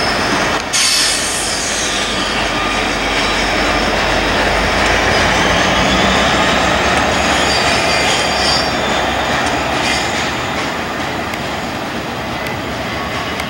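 Canadian Pacific continuous welded rail train passing close by. Diesel locomotives rumble past through the first half, then the loaded rail cars roll by on the rails with some high wheel squeal.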